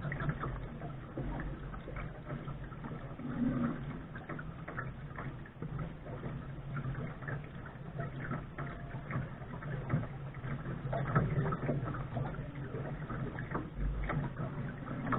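Water splashing and lapping irregularly against the bow of a Lark sailing dinghy under way.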